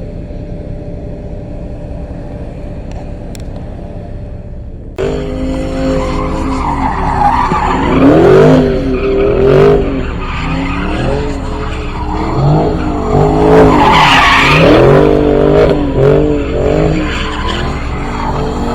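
A car engine running low and steady, then about five seconds in it suddenly revs hard, the pitch climbing and falling again and again, while the tyres squeal in a burnout.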